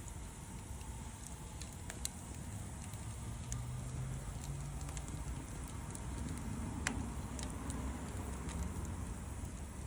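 Wood campfire crackling, with scattered sharp pops, the loudest about seven seconds in, over a low steady rumble.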